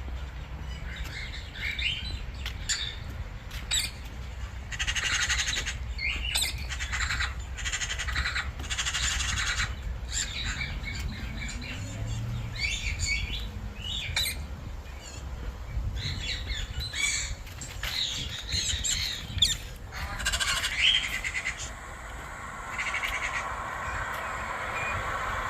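Wild birds calling: a run of short chirps mixed with harsh squawks, some calls coming in quick clusters, over a steady low rumble.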